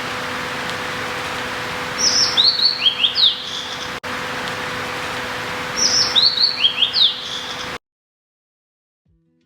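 A songbird singing a short phrase of quick, down-slurred whistled notes, repeated twice, over a steady background hiss. The sound cuts off abruptly near the end.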